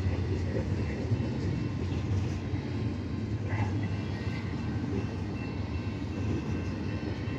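Container freight train rolling past, a steady low rumble of wagons on the rails.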